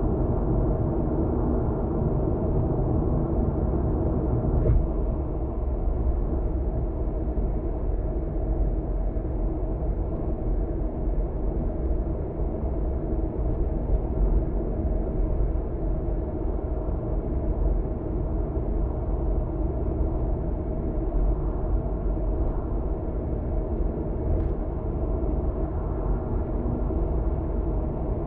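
Steady road noise heard from inside a moving car's cabin: a low tyre rumble with a steady engine and drivetrain hum, and a couple of faint ticks.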